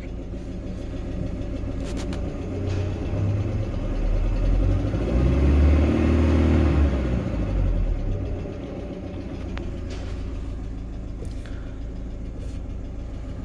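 Evotech 2.7 four-cylinder petrol engine of a GAZelle Business, heard close up. It idles, is revved up for a few seconds about a third of the way in, then drops back to idle. One hydraulic valve lifter taps both at idle and at higher revs, which the mechanic takes for a faulty lifter.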